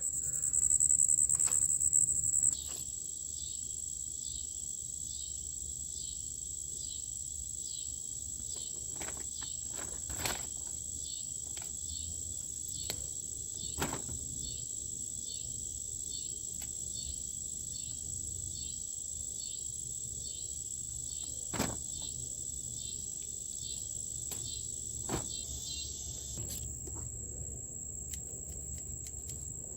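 Insects singing outdoors: a steady high-pitched buzz with a rapid, evenly pulsing chirp beneath it that eases off near the end. A few short clicks and rustles sound over it.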